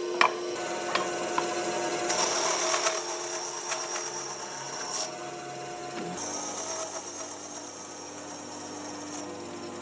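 Small electric power tools running on wood, each giving a steady motor hum with a rasping edge. The tool sound changes abruptly every few seconds, and there is a sharp click just after the start.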